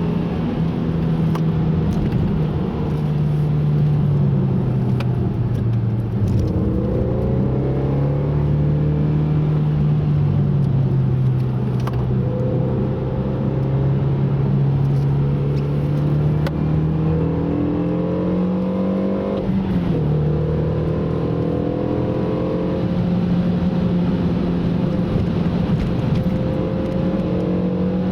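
A car's engine under way, its note rising and falling with the throttle; it climbs steadily for several seconds and drops sharply about two-thirds of the way through at a gear change.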